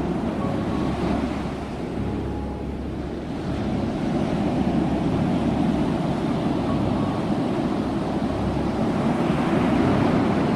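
Ocean waves washing on a shore, a steady rushing surf that swells and eases in slow surges.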